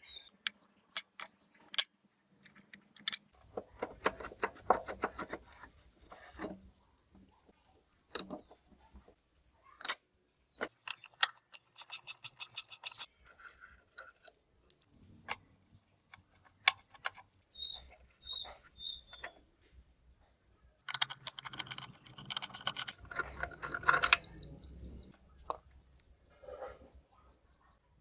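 Small hard parts of a radio cassette recorder being handled and worked on: scattered sharp clicks and clinks, with longer stretches of scraping about four seconds in and again near the end.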